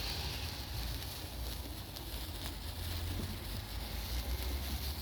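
Lit handheld sparklers fizzing and crackling steadily over a low rumble.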